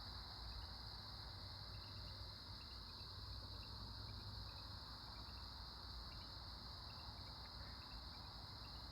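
A night chorus of crickets: one steady, high-pitched trill with no breaks, and short chirps repeating just below it every half second or so. A faint, low, steady rumble runs underneath.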